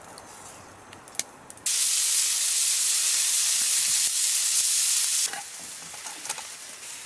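Food frying in a hot pan: a loud sizzle starts suddenly about a second and a half in, holds steady for about three and a half seconds, then drops abruptly to a quieter sizzle.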